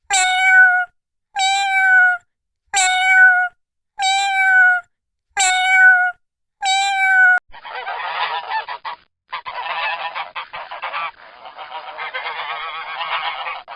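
Goose honking six times in evenly spaced, identical calls, each about two-thirds of a second long. About halfway through this gives way to a flock of geese honking and cackling over one another without pause.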